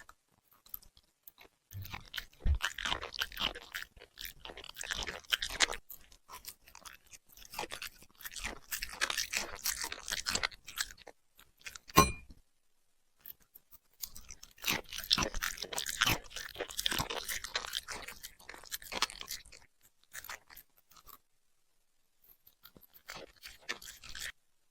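A puppy chewing crunchy food close to the microphone, in several bouts of rapid crunching with short pauses between them. A single sharp click stands out about halfway through.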